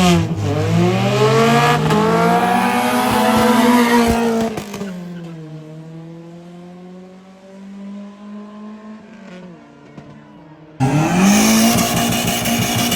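Car engine at full throttle during a drag-race launch, its pitch climbing steadily over about four seconds before fading away as the car pulls off. About eleven seconds in, a loud engine at full throttle comes in suddenly, its pitch rising again.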